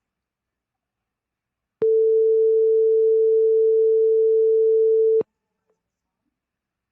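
Simulated buzzer of a PIC microwave-oven program in the PICSimLab simulator, sounding one steady mid-pitched beep for about three and a half seconds. It starts about two seconds in and cuts off suddenly, signalling that the set cooking time has run out.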